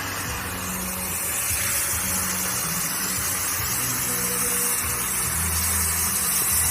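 Handheld or ground fountain firework spraying sparks with a steady, unbroken hiss.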